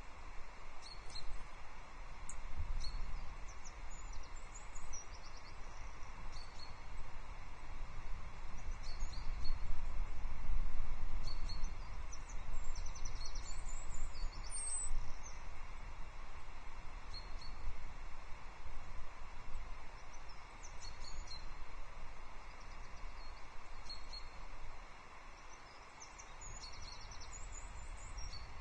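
Outdoor wind noise on the microphone as a low rumble that swells and fades, strongest about ten seconds in, with faint, short, high chirps from small birds scattered throughout.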